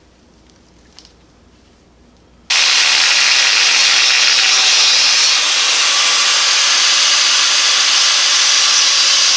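A power tool cutting through a metal exhaust pipe, starting suddenly about two and a half seconds in and then running loud and steady with a high-pitched rasp. Before it starts there is only quiet and a faint click.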